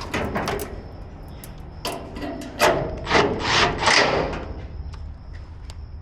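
Knocks, rattles and rubbing of grill parts and tools being handled during gas grill assembly, with a burst of several knocks about halfway through.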